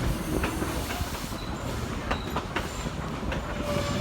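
Narrow-gauge passenger car rolling behind a Baldwin steam locomotive: steady wheel-and-track rumble with irregular clicks from the rail joints and brief faint wheel squeals.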